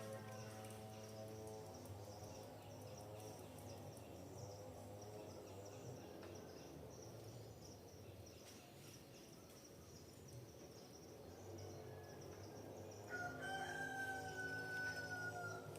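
Rooster crowing twice: one crow trails off just after the start, and another long crow comes about thirteen seconds in. Under both runs a steady, pulsing high insect trill.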